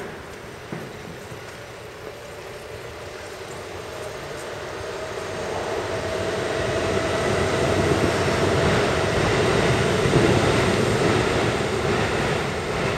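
An electric train running over the elevated concrete viaduct overhead, heard from underneath: its rumble swells over several seconds and stays loud, with a steady whine above it.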